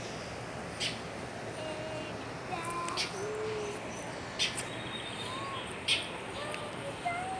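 Bird calling: short sharp chips about every one to two seconds, with brief whistled notes in between.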